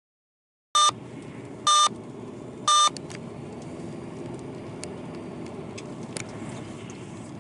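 Three short electronic beeps about a second apart, each with a steady pitch, followed by steady road and engine noise from inside a vehicle with a few faint clicks.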